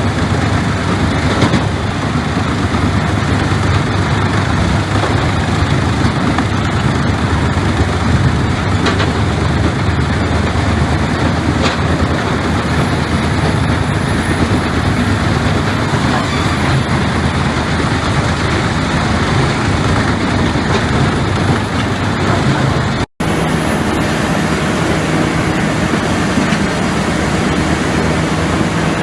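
Heavy machinery running steadily under load, a dense mechanical noise. About 23 s in it cuts out for an instant and a different machine follows, with a steadier low hum.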